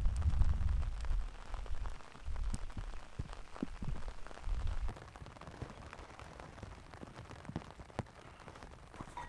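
Rain pattering with sharp drop taps on a canvas tent, under a deep rumble of thunder that is loudest at the start and dies away about halfway through.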